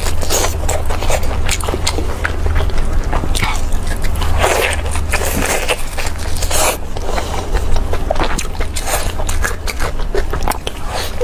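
Close-up chewing and biting of food, a dense run of irregular wet clicks and crackles.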